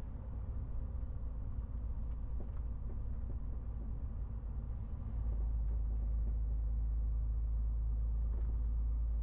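MAN TGX 18.470 truck under way: a steady low diesel-engine and road rumble that grows louder about five seconds in.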